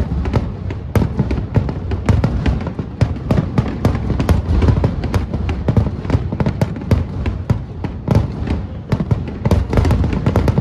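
Fireworks display: a dense, unbroken run of shell bursts and crackling reports, several a second, over a continuous low rumble of booms.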